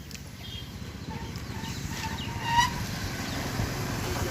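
A low engine-like rumble growing steadily louder, with a few short bird calls about halfway through.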